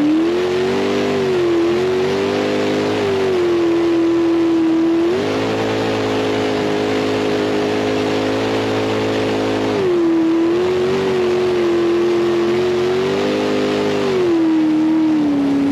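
Engine running hard at high revs, its pitch rising and falling several times as the throttle changes, highest through the middle stretch and dropping away near the end.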